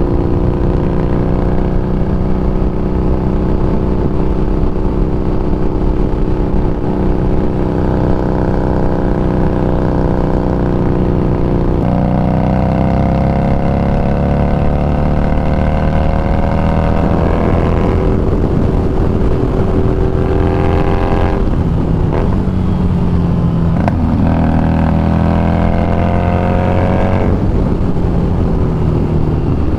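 Harley-Davidson Street Rod 750's V-twin engine running under way. The pitch holds steady at first. About twelve seconds in it begins climbing repeatedly, with drops between the climbs, as the bike accelerates and shifts up through the gears.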